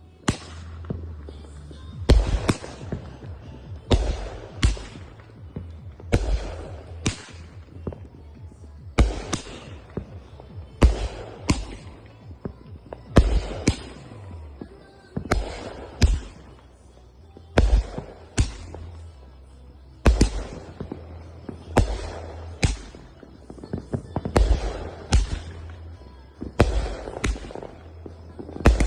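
Consumer aerial fireworks firing and bursting one after another, a sharp bang roughly every one to two seconds, often in close pairs, each followed by a short crackling tail.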